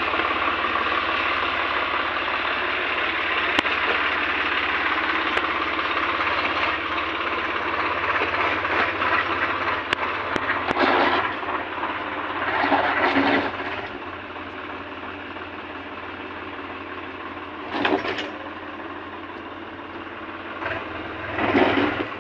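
Swaraj 744 FE tractor's three-cylinder diesel engine running hard, with several louder revving swells in the second half as the throttle is opened and eased.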